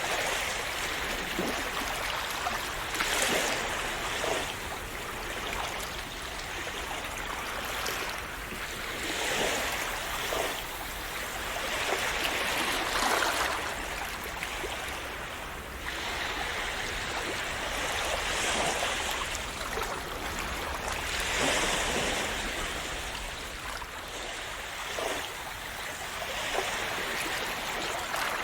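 Calm sea waves splashing and washing on the shore: a continuous wash that swells every few seconds.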